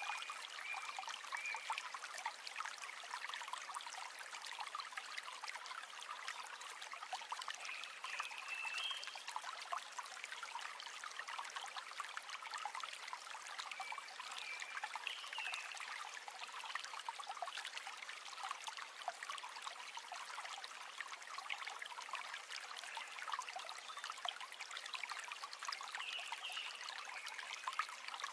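River water flowing and trickling steadily, with a few short high chirps over it.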